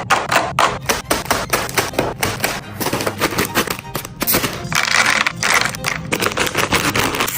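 Rapid clicking, tapping and clattering of food packaging and containers being handled, with a stretch of rustling about five seconds in.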